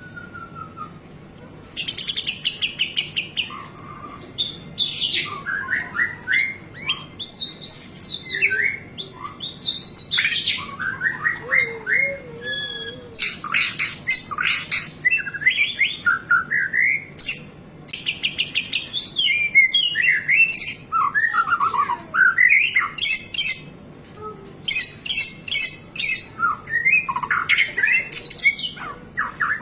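White-rumped shama (murai batu) singing a long, varied song packed with mimicked phrases: fast trills, clear whistles and rising and falling sweeps, starting about two seconds in.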